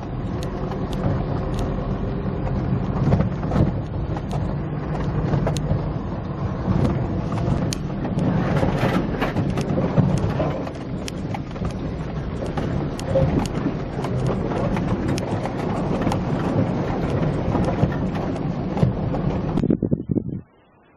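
Car driving along a wet, rutted dirt track: a steady loud rumble of engine and tyres with many sharp knocks and splashes from the rough ground. It cuts off suddenly near the end.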